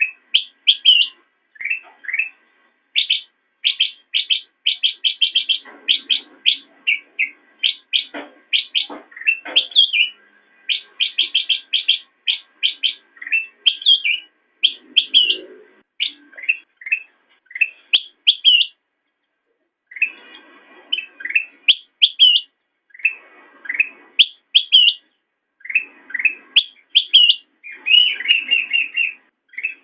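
A kutilang emas (ruby-throated bulbul) singing a chattering song of short, quick chirps strung into fast runs, with a short pause about two-thirds of the way through.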